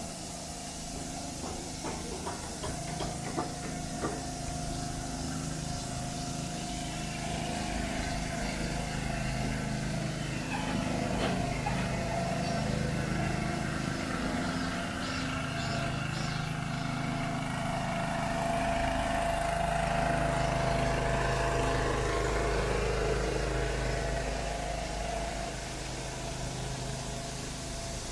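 City traffic: vehicle engines running and passing, a steady hum with a heavier low rumble that builds and eases off about two-thirds of the way through.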